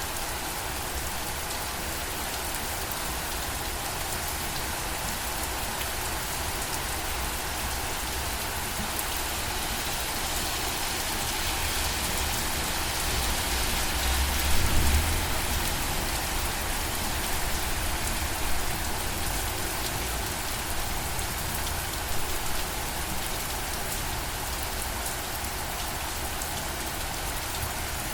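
Steady rain falling and pattering on surfaces. It swells to a heavier spell about halfway through, with a brief low rumble at its peak.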